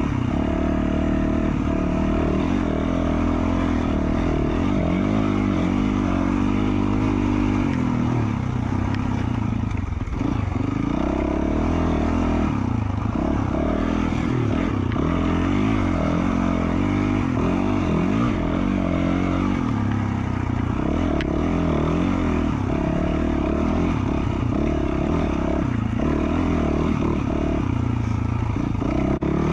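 2020 Yamaha YZ450F's single-cylinder four-stroke engine running under load through an FMF Q4 slip-on exhaust. Its pitch keeps rising and falling with the throttle on a trail ride, easing off briefly about ten seconds in.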